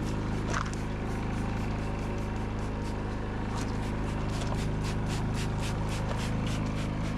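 Steady machine hum with a run of faint clicks over it.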